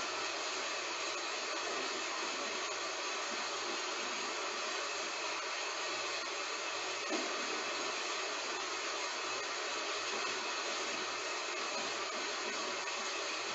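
Heavy rain falling steadily: an even, unbroken hiss, with no thunder in it.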